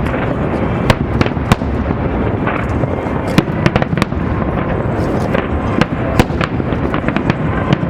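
Fireworks display with shells bursting in quick, irregular succession: many sharp cracks over a continuous low rumble of booms.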